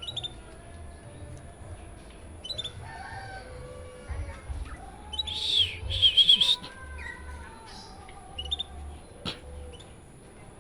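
A caged songbird chirping in short high calls, with a louder burst of warbling song about five to six and a half seconds in.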